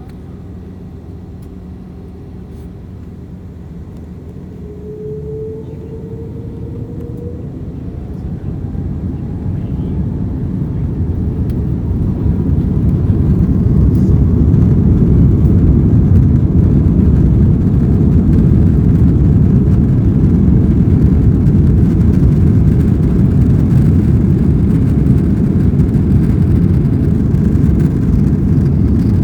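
Airbus A330-300's Rolls-Royce Trent 700 engines spooling up to take-off thrust. A rising whine comes about five seconds in, and the noise builds for about ten seconds into a steady, loud rumble.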